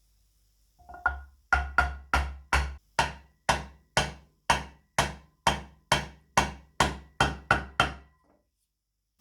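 A series of about eighteen sharp, ringing strikes in a steady rhythm of roughly two a second, like a hammer tapping on a workpiece, stopping just before the end.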